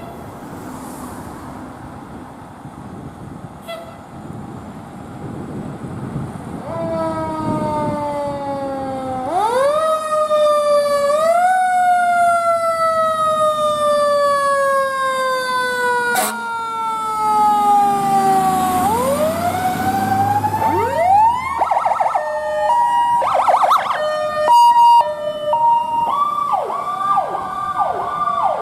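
Emergency vehicle siren growing louder as it approaches: a slow wail that rises and falls, then switches to quick rising sweeps and rapid pulsing tones in the last few seconds.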